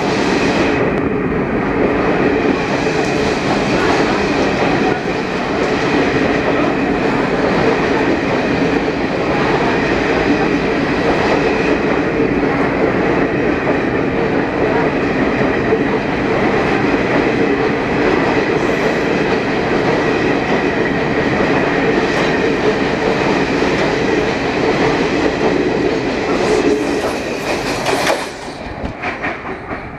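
Passenger coaches of the Maharajas' Express rolling past at speed: a loud, steady rumble and rattle of wheels on the rails. It falls away suddenly near the end as the last coach goes by.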